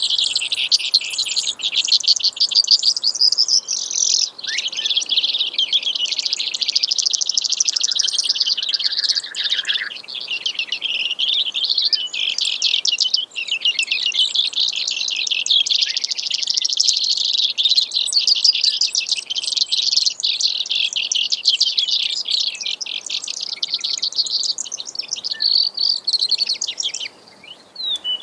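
Brewer's sparrow singing: a long, unbroken song made of rapid trills, each section shifting in speed and pitch from the one before, ending shortly before the close.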